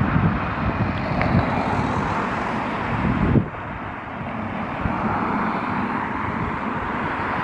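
Steady vehicle noise mixed with wind on the microphone, with a louder swell that cuts off suddenly about three and a half seconds in.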